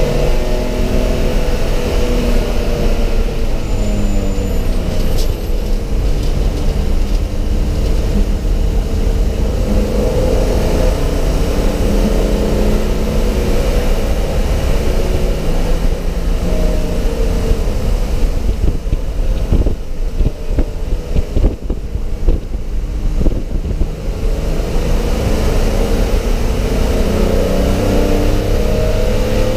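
Race car engine heard inside a stripped, roll-caged cabin, running hard with the pitch rising and falling as it revs through the gears. About two-thirds of the way through it goes quieter and a run of knocks and rattles comes through before it pulls hard again.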